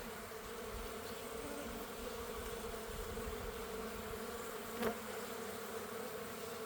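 Honeybees buzzing steadily around an open hive, an even hum, with one short knock about five seconds in.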